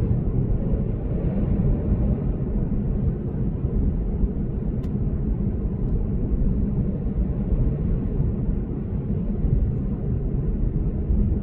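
Steady low rumble of road and tyre noise from a Lexus GS450h hybrid sedan cruising on an expressway, with one faint click about halfway through.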